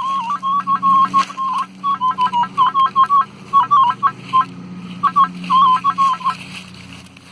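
Minelab CTX-3030 metal detector's speaker sounding a high target tone: a run of short, warbling beeps that repeat as the coil is swept back and forth over the target, thinning out and stopping a little after the middle. Behind it a lawnmower engine drones steadily.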